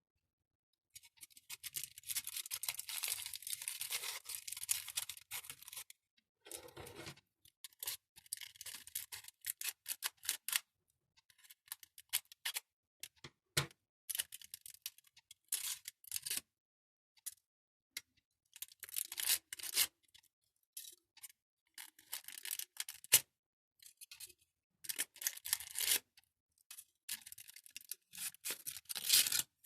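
Mandarin being peeled close up: the rind tearing and crackling in bursts, some a few seconds long and some short snaps, with silent pauses between them.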